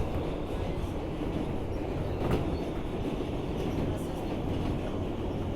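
Steady rumble of an R160B subway car running through the tunnel, heard from inside the car, with a single sharp click a little over two seconds in.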